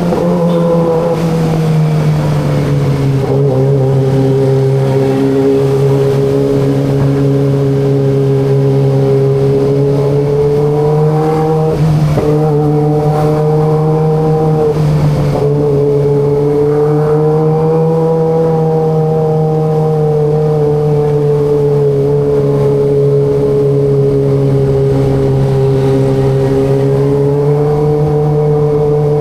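Kawasaki ZX25RR's 250 cc inline-four engine and exhaust running at a steady, fairly constant speed while riding, with brief changes in note about twelve and fifteen seconds in.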